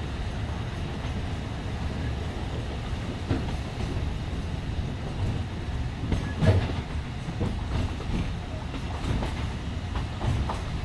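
Alishan Forest Railway narrow-gauge train running: a steady low rumble of the carriage with scattered wheel clicks on the track, and one louder knock about six and a half seconds in.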